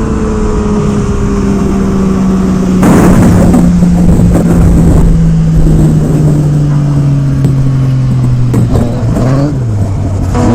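Motorcycle engine running with one steady tone whose pitch falls slowly over most of the stretch. A burst of rushing noise comes in about three seconds in. Near the end the pitch dips and rises briefly, then settles lower.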